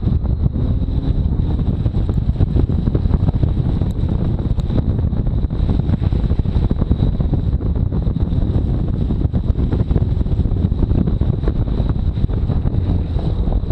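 Chevrolet Camaro ZL1 1LE being driven on a wet course: a steady, dense low rumble of the car running over standing water in the rain, with wind buffeting the microphone.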